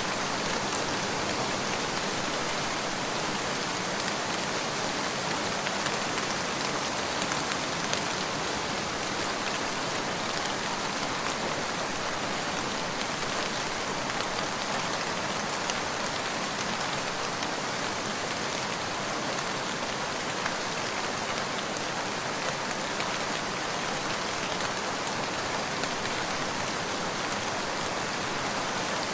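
Steady rain falling on a surface, an even hiss with scattered patter of drops.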